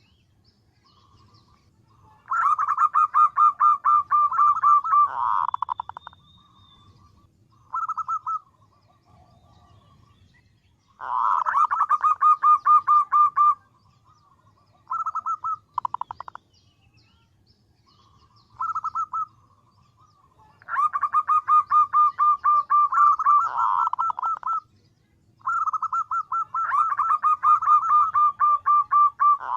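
Female zebra dove (perkutut) giving her calling song to attract males: rapid trains of staccato cooing notes, about eight a second. They come in runs of a few seconds with short bursts between, again and again.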